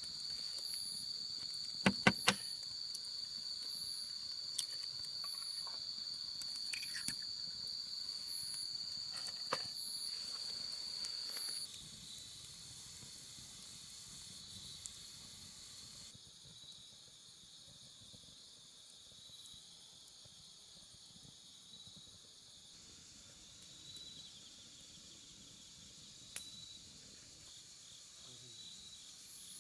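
Late-summer insects singing: a steady high trill with a short high chirp repeating about once a second, which drops to a quieter chorus about twelve seconds in. A few sharp cracks sound about two seconds in.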